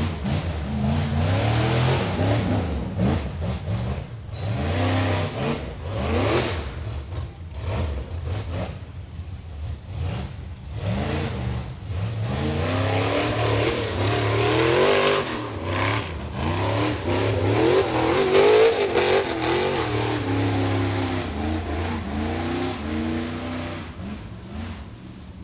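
Rock bouncer buggy's high-horsepower engine revving hard in repeated bursts, pitch rising and falling over and over as it claws up a slippery climb, with throttle blips and bouncing on the rocks. The revving fades down near the end.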